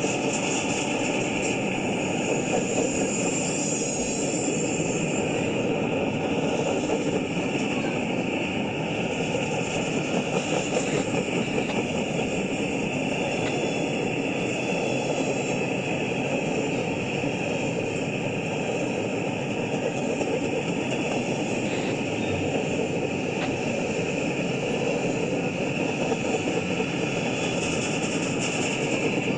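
Cars of a long freight train rolling past, a steady unbroken noise of steel wheels running on the rails.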